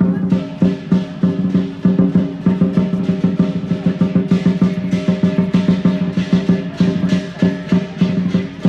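Lion dance percussion: a large drum beaten in rapid strokes together with clashing cymbals and a ringing gong.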